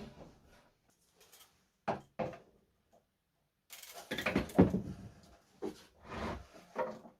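Wooden cabinet parts being handled: a series of knocks and scrapes, with a longer, louder clatter about four seconds in.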